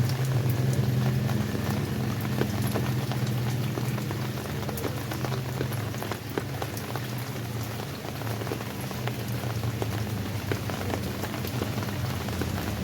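Steady rain falling, with many separate raindrops ticking sharply against a surface over an even hiss. A low rumble underneath is strongest at the start and eases off over the first few seconds.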